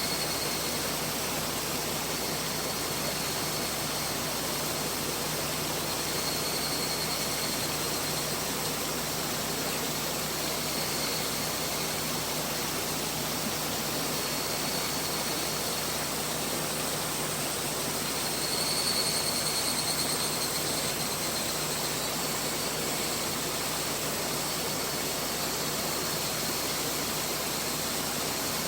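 Mountain river rushing steadily over rocks. A faint high wavering tone comes and goes over it, strongest about two-thirds of the way through.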